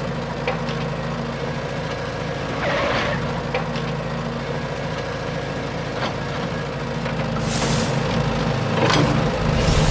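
Small engine of a mini model tractor running steadily, with scattered sharp clicks and a few short hissing bursts.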